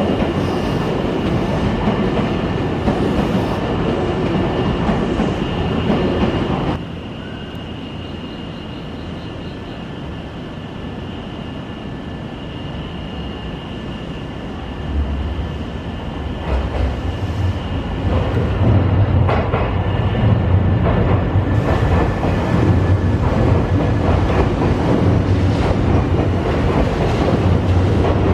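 Nankai electric trains at a station platform: a train running loudly, which cuts off suddenly about 7 seconds in to a quieter platform background, then another train's low rumble builds from about halfway and is loud again for the last ten seconds.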